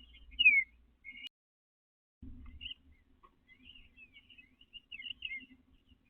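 Songbirds calling outdoors: a clear down-slurred whistle about half a second in, then, after a brief dropout, a string of short chirps and whistles.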